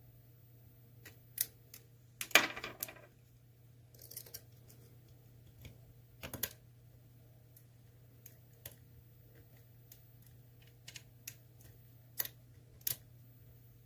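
Lock pick working the pin stacks of an ASSA Twin Combi lock under tension: sparse, irregular small metallic clicks and taps as pins are lifted and set, with a louder clatter of clicks about two and a half seconds in.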